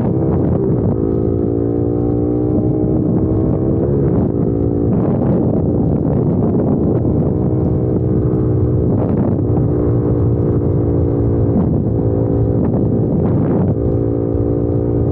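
Honda CBR600RR sport bike's inline-four engine running loud, its pitch drifting slowly and breaking off briefly about five times as the throttle changes.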